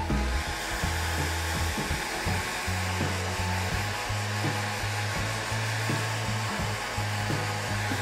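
Hair dryer blowing steadily, drying a freshly wetted watercolour-pencil painting on paper, with background music underneath.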